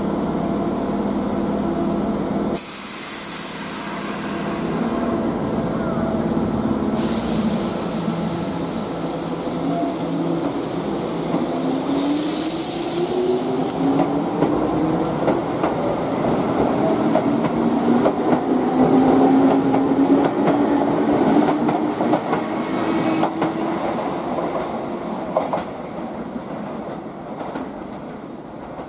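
Green Keihan electric commuter train running away from the platform over curved track and points, its wheels clicking over the rail joints. A brief high wheel squeal comes about twelve seconds in, and a motor whine rises slowly in pitch as the train gathers speed, then fades near the end.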